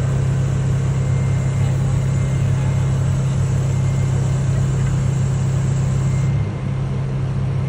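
A vehicle engine running steadily at idle, a low hum; about six and a half seconds in it shifts and gets a little quieter.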